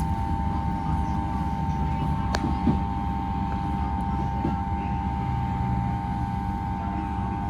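Class 323 electric multiple unit heard from inside the carriage as it pulls into a station: a steady low rumble of the running gear with a steady high whine that cuts off at the very end, and a single sharp click about two and a half seconds in.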